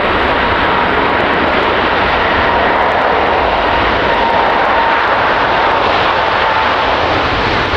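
Jet airliner engines, loud and steady, with a faint whine that sinks slightly in pitch through the middle.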